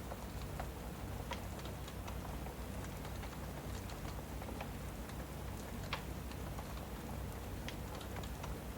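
Steady rain ambience with a wood fire crackling, irregular sharp pops scattered through it, the loudest about six seconds in.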